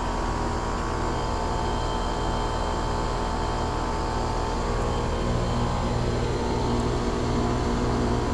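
2001 Trane XE1000 Weathertron 5-ton heat pump outdoor unit running in heat mode: a steady compressor hum with several constant tones under the rushing noise of the condenser fan.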